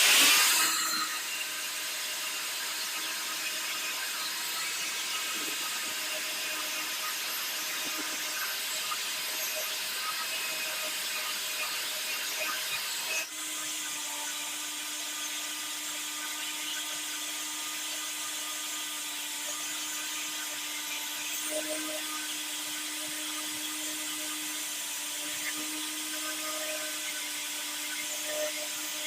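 Small high-speed power tool running steadily with a whining hum and a hiss. It starts abruptly, breaks for a moment about halfway through, then runs on.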